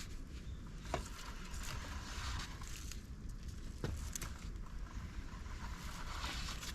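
Fire of dry bamboo, twigs and leaves burning in a campfire stand: a steady crackling hiss with a few sharp pops.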